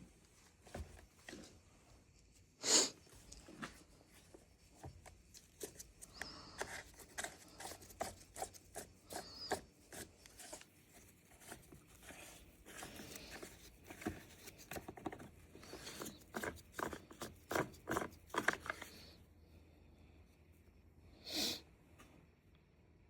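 Small clicks, scrapes and rattles of parts and hand tools being handled as a Dewalt chainsaw is taken apart. There is a sharper clack about three seconds in, a busy stretch of clicking through the middle, and another clack near the end.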